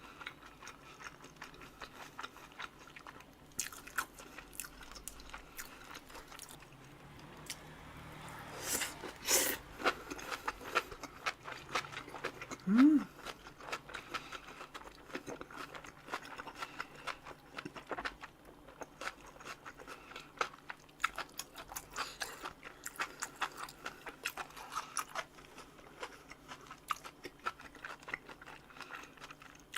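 Close-miked chewing and crunching of a bossam wrap of boiled pork with kimchi and fresh vegetables: many small crisp crunches and wet chewing sounds. A short rising note about thirteen seconds in is the loudest sound.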